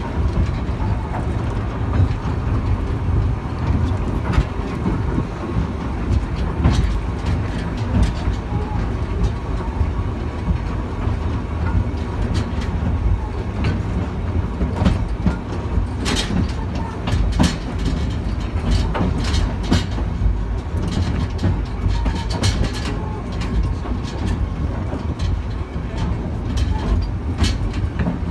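A heritage railway train running along the track, heard from on board a carriage: a steady low rumble with irregular clicks and clanks from the wheels and running gear.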